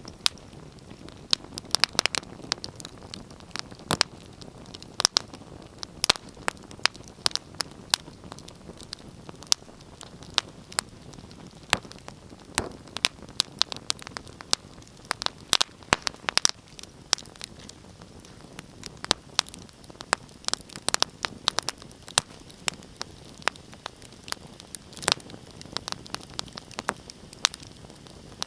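Wood fire crackling: irregular sharp pops and snaps, a few a second, over a steady soft hiss.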